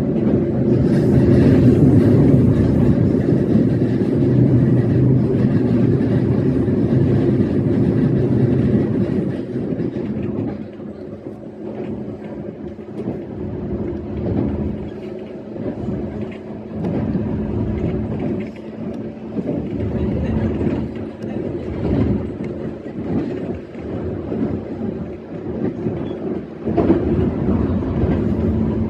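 E131-series electric train running along the line, heard from the cab: a steady running noise with a constant hum. It is louder for about the first ten seconds, then eases off, with repeated clacks from the rails.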